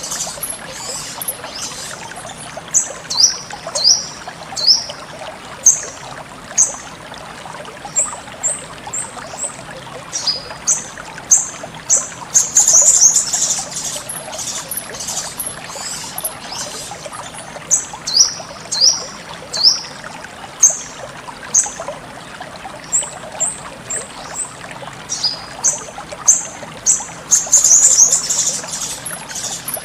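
Sogon bird giving short, high chirps, some sliding down in pitch, in quick runs of several notes, over a steady trickle of running water.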